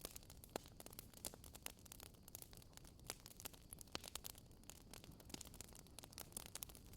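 Faint fireplace wood fire crackling with irregular small pops, a few sharper than the rest, over a soft steady hiss.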